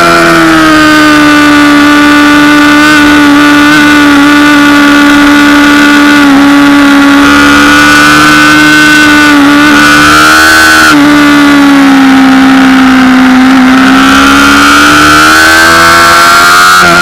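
Honda CBR600RR's inline-four engine running at high revs under way, very loud. Its pitch holds fairly steady with brief small dips, sags a little in the second half and climbs again near the end.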